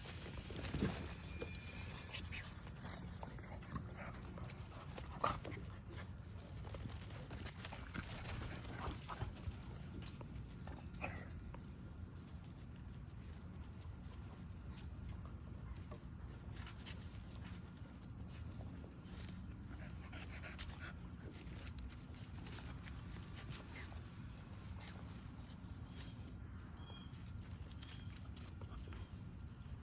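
Steady high-pitched insect chirring, such as crickets, outdoors, with scattered short knocks and scuffs in the first ten seconds from the puppies moving about.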